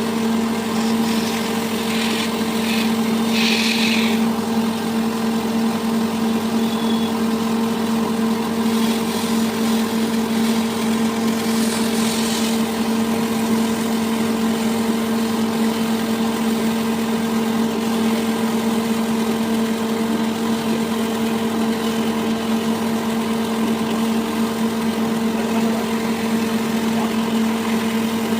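A machine motor running steadily with a constant hum, with a few brief hissy bursts about two to four seconds in and again about twelve seconds in.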